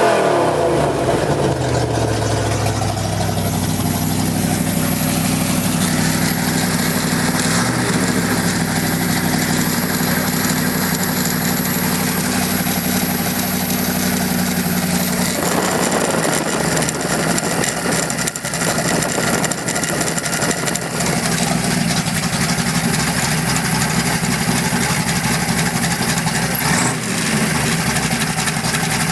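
Oldsmobile 350 V8 engine falling back from a rev in the first few seconds, then idling steadily.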